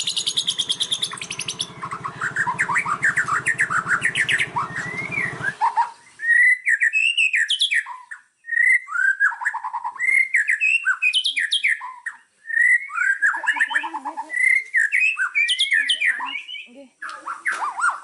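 Small songbird singing, a fast varied run of chirps and whistled notes sliding up and down, in phrases broken by short pauses. A low buzz sits underneath for the first five or so seconds, then cuts off abruptly, leaving the song clean.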